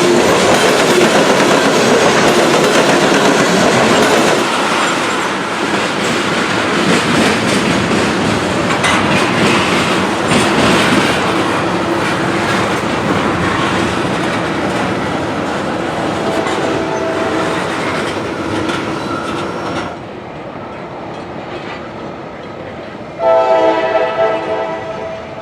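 Freight train rolling past, its wheels clattering over the rail joints and its cars rattling. A diesel locomotive's multi-note air horn sounds faintly about two-thirds of the way through, then loudly for about two seconds near the end.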